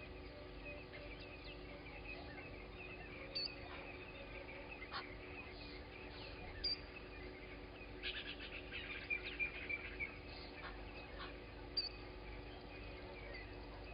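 Wild birds calling and chirping, short sharp notes scattered through, with a denser flurry of rapid chirps about eight to ten seconds in. A steady low hum runs underneath.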